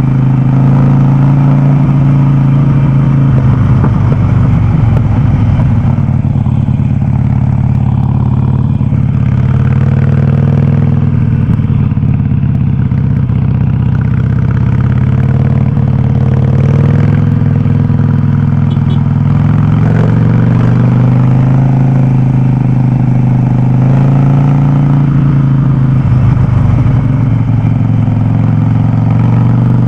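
Harley-Davidson Sportster Forty-Eight's air-cooled V-twin running loud through an aftermarket Vance & Hines exhaust on the move, its note dropping and climbing several times with throttle and gear changes.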